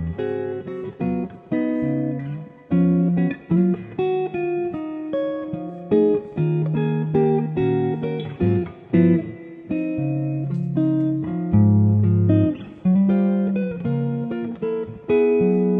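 Solo guitar improvisation: single plucked notes and chords follow one another freely, each starting sharply and ringing out before the next.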